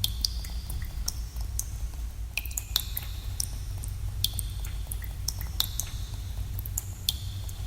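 Water dripping in a cave: irregular drops, several a second, each a sharp plink with a short high ringing tail, over a steady low rumble.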